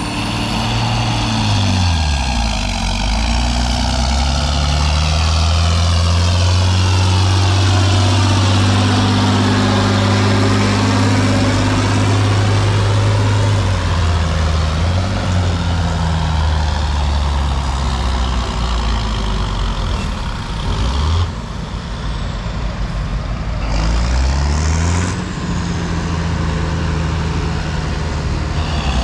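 Heavy engine of a pulling tractor or truck running under load, its note changing with engine speed: it falls about two seconds in, holds steady, dips briefly near the twenty-one-second mark and climbs again a few seconds later.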